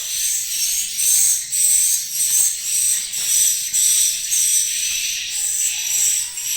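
Swiftlets twittering inside a swiftlet house: a dense, high-pitched chirring that comes in short repeated pulses.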